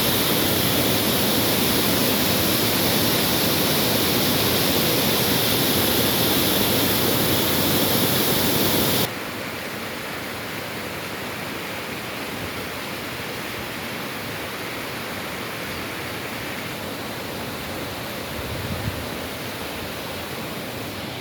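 Waterfall: a steady rush of falling water that drops suddenly to a softer level about nine seconds in.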